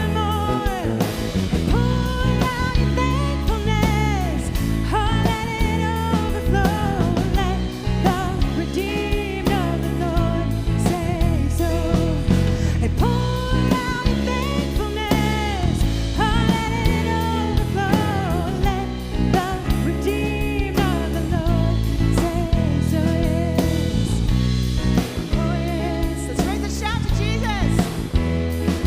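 A live worship band playing a rock-style song, with singing over the instruments.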